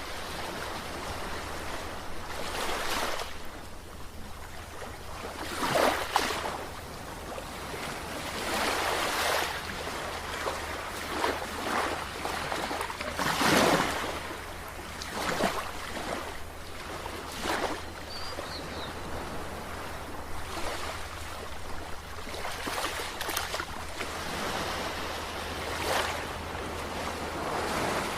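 Sea waves breaking and washing in, rising and falling in swells every few seconds, with several sharper splashes as some break. A low steady hum runs underneath.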